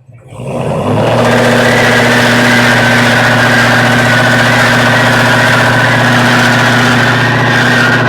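A car engine coming up to high revs within the first second and held there, running loud and steady.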